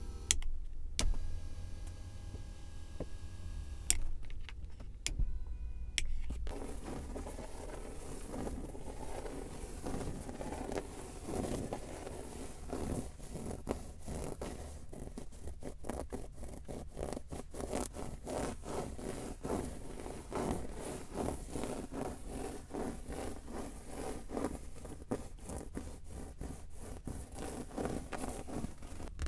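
Fingers and nails tapping and scratching rapidly on a car's surfaces, ASMR-style. A few separate clicks come first, then about six seconds in a dense, fast run of taps and scrapes starts and continues.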